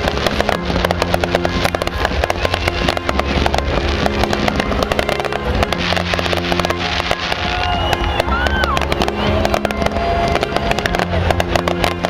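Fireworks display crackling and popping densely and without pause, over music with a repeating bass line. A few short whistles rise and fall about two thirds of the way in.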